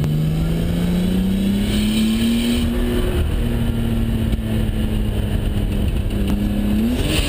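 Nissan Skyline R32 GTS-4's engine running, heard from inside the cabin. The revs climb gradually over the first few seconds, ease back slowly, then rise quickly near the end.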